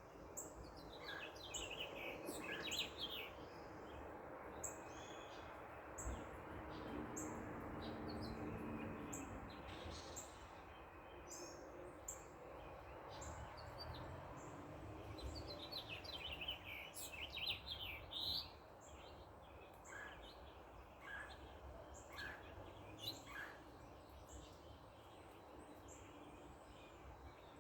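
Backyard birds chirping, with two bursts of rapid high trilling, over a steady faint background hum.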